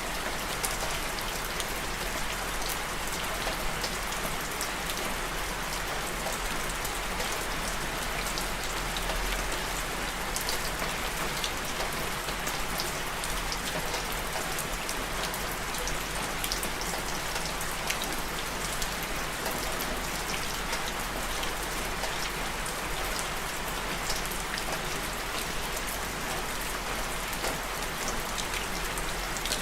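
Steady rain falling and pattering on a surface, a dense even hiss with many small drop taps.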